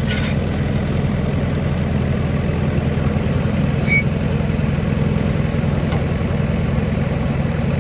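Massey Ferguson tractor engine idling steadily, with one brief sharp click about four seconds in.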